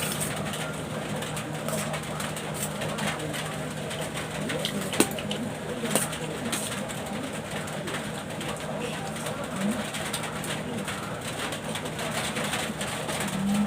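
Pigeons cooing over a steady low hum, with two sharp clicks about five and six seconds in.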